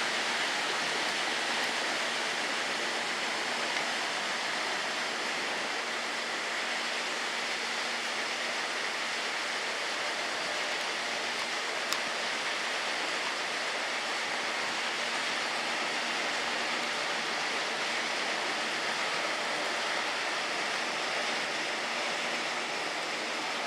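Steady rushing noise of peanut mill machinery, with a faint low hum underneath and a single small click about halfway through.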